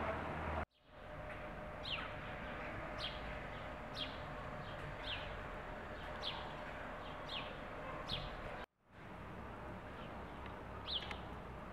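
A bird calling over and over in short chirps that slide downward in pitch, about one a second, over steady outdoor background noise. The sound cuts out abruptly twice.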